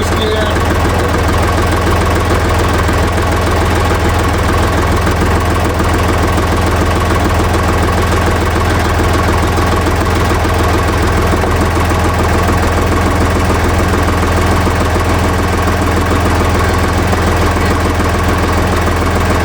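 Ditch Witch's three-cylinder air-cooled Deutz diesel running steadily with a clattery knock, with no change in speed.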